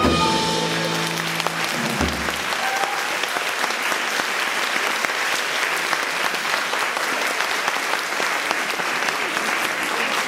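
The final held chord of a jazz vocal group and band dies away in the first two seconds, then an audience applauds steadily.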